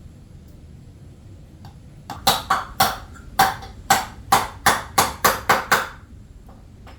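A hammer driving a nail into wood: a quick run of about eleven sharp strikes, about three a second, starting about two seconds in and stopping near the end.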